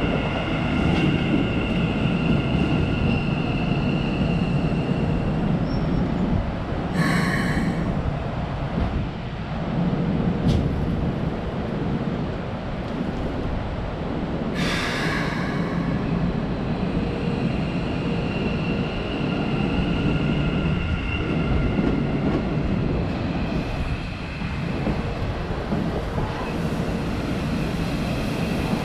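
Keikyu electric train moving slowly through the depot's train washer: a steady rumble with high squealing tones that fade in and out. Two short hisses come about 7 and 15 seconds in.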